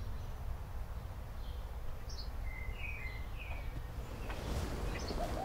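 Woodland ambience: a few short bird chirps, some of them two-note, over a steady low rumble, with a scratchy rustling noise building near the end.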